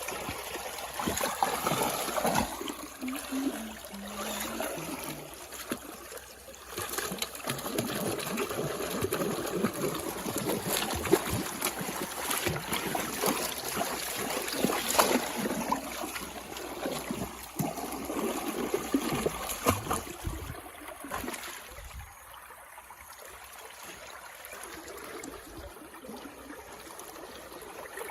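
Water flowing in a stream, a steady rushing and trickling that grows quieter for a few seconds about two-thirds of the way through.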